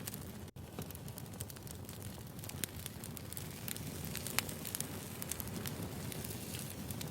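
Wood fire crackling: a steady low rumble of burning logs with many small irregular pops and snaps. The sound cuts out for an instant about half a second in.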